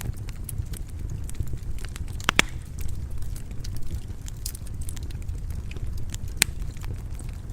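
Wood fire crackling in a fireplace: a steady low rumble of burning with scattered small snaps and a few louder pops, the loudest about two and a half seconds in and again about six and a half seconds in.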